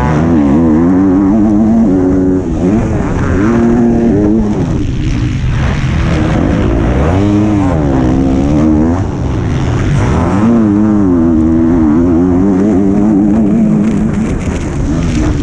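125cc two-stroke motocross bike engine heard from an onboard camera on the bike, revving up and down again and again as the rider opens and shuts the throttle and shifts through the gears, with brief drops when the throttle is rolled off.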